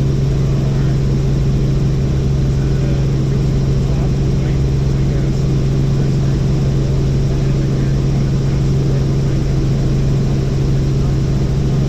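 Helicopter in flight, heard from inside the cabin: a loud, steady drone with a constant low hum and no change in pitch.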